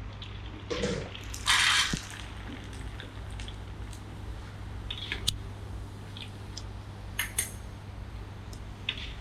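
Kitchen utensils knocking and clinking against pans and dishes during cooking, with a short loud hiss about a second and a half in. A steady low hum runs underneath.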